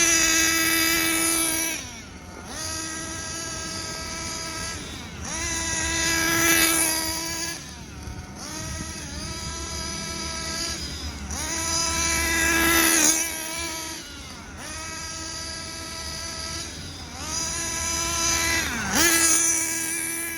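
Hobao Hyper VS RC buggy's small nitro engine running during break-in: four times it rises to a high-pitched rev for about two seconds, then drops back to a lower, steady run.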